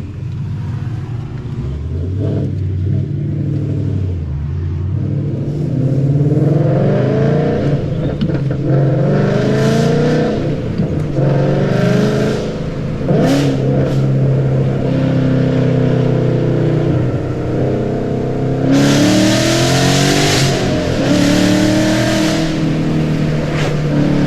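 2013 Ford Mustang GT's 5.0 V8 with long-tube headers, X-pipe and Roush mufflers, accelerating through several pulls: engine pitch climbs, then drops, then climbs again. Exhaust rasp gets louder under throttle around ten seconds in and most strongly near the end.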